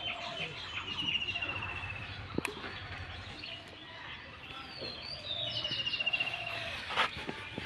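Small birds chirping, with a rapid trilled call heard twice, about a second in and again later.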